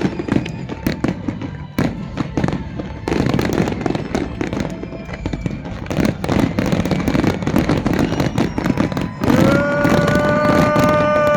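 Fireworks display: rapid bangs and crackling from many shells bursting overhead. About nine seconds in, a steady pitched tone joins in and holds for about two seconds.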